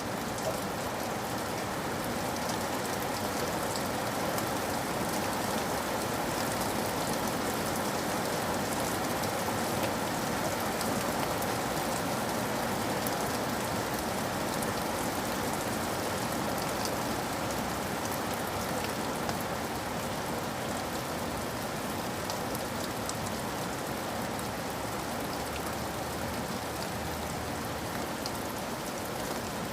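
Steady rain falling on a surface, an even, dense patter with scattered sharp drop ticks.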